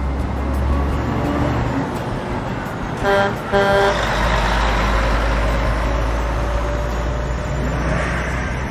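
A truck engine running steadily, with a horn honking twice in quick succession about three seconds in.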